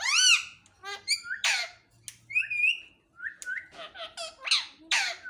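A pet parrot squawking and calling: a run of short, harsh, high calls that rise and fall in pitch, coming in quick bursts with short pauses between them.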